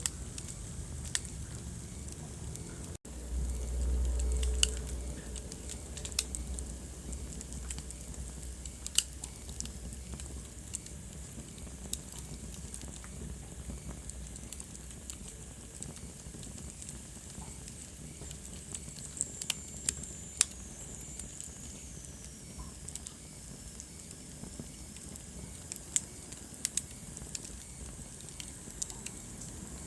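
Wood fire in a fireplace crackling, with sharp irregular pops over a steady soft hiss. A brief low rumble comes a few seconds in, and a faint high whistle slides down in pitch about two-thirds of the way through.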